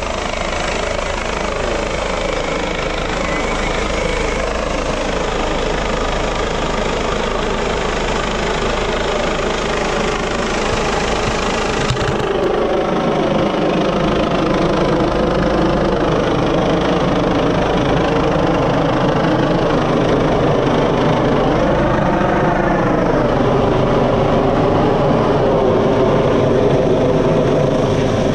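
Helicopter rotor and turbine engine running steadily overhead, a continuous throbbing drone that gets a little louder about twelve seconds in.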